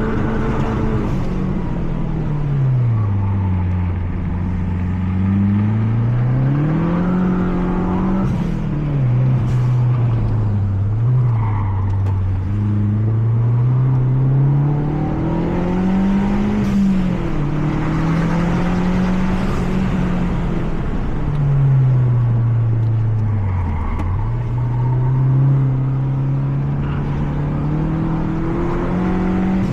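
Mazda 3 MPS's turbocharged 2.3-litre four-cylinder engine heard from the cabin, pulling hard through the gears: its pitch climbs under acceleration and drops at each gear change and braking zone, over and over.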